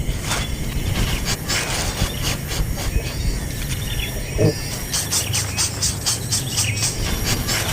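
Short high bird chirps among crackling, rustling clicks over a low background rumble, with one brief lower call about halfway through.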